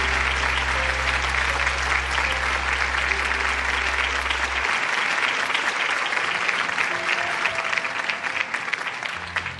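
Concert audience applauding over the band's held closing chord. The low bass note stops about halfway and a few soft sustained notes carry on. The clapping thins out near the end.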